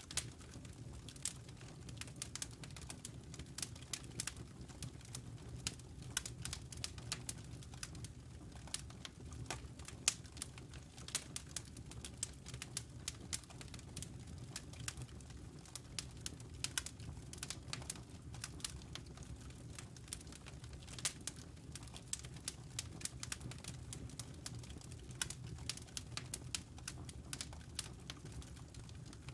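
Campfire wood crackling: irregular sharp pops and snaps, several a second, over a low steady rumble of the burning fire.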